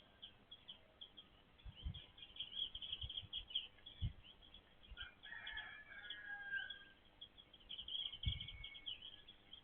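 Small backyard birds chirping rapidly and continuously, with a longer, drawn-out call of about two seconds starting about five seconds in. A few low thumps sound along the way.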